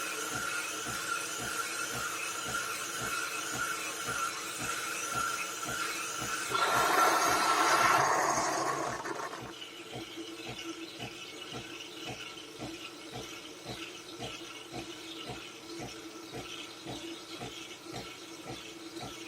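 Nespresso Gran Lattissima espresso machine running through a drink, its pump pulsing about two and a half times a second with a steady whine over it. About six seconds in, a loud hiss lasts some three seconds, then the pulsing goes on more quietly.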